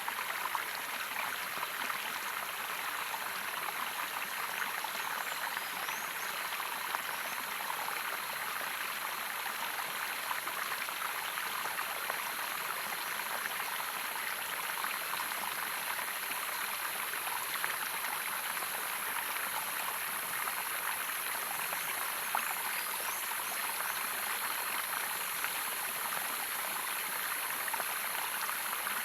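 Running water of a stream flowing with a steady, unbroken rushing splash.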